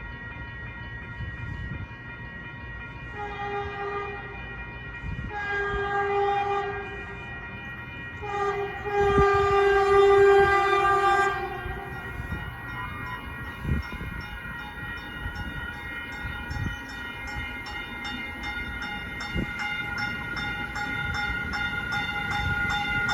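Stadler KISS electric multiple unit sounding its horn in the grade-crossing pattern: long, long, short, long. After the horn, a fast, even clicking quickens and grows louder as the train comes closer.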